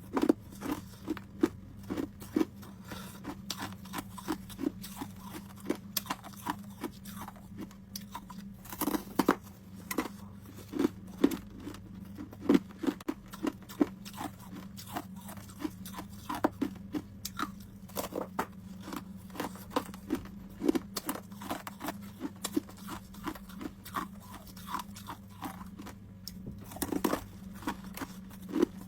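Homemade ice cubes being bitten and chewed close to the microphone: a steady run of sharp crunches and cracks, several a second, in clusters with short gaps.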